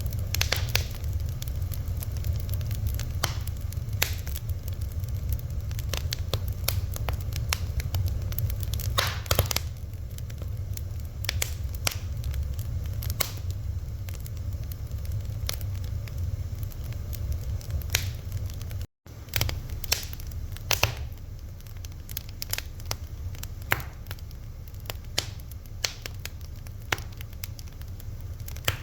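Fire crackling, with irregular sharp pops and snaps over a low steady rumble. The sound drops out for a split second about two-thirds of the way through.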